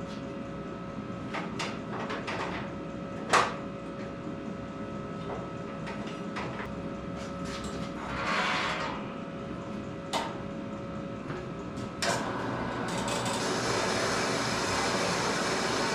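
Scattered knocks and clanks of steel being handled at the workbench and metal-cutting bandsaw, with one sharper clank about three seconds in. A steady machine noise comes up in the last few seconds.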